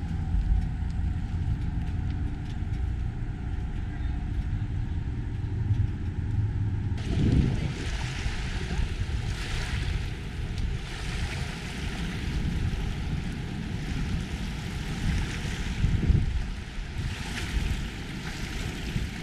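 Harley-Davidson Heritage Softail Classic's air-cooled V-twin running at low speed, then pulling away about seven seconds in, after which loud wind rush on the rider's microphone covers the engine's rumble as the motorcycle rides down the road.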